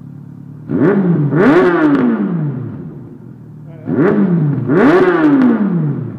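2002 Yamaha R1's inline-four engine, warm, through a Mivv Cone aftermarket exhaust. It idles, then is revved twice. Each time a quick blip is followed by a bigger rev that winds down to idle.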